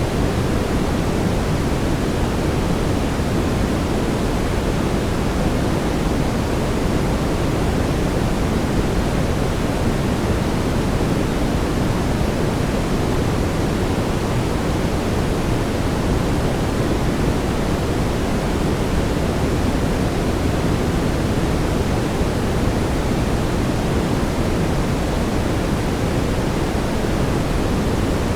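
Steady brown noise: an even, unchanging hiss with most of its weight low down, like a deep rumble.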